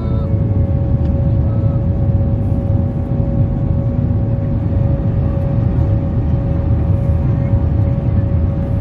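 Steady cabin noise of an airliner in flight: a low rumble with a steady hum tone above it.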